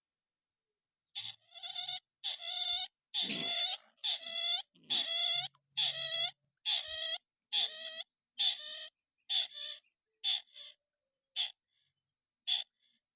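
A crake (burung tikusan) calling: a long series of harsh, pitched calls, roughly one every 0.8 s, that get shorter and fainter toward the end.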